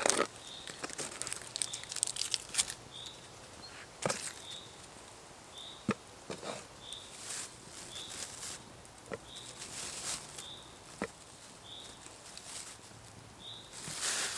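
Wood being worked by hand: intermittent scraping strokes and a few sharp woody cracks. A short high note repeats steadily in the background.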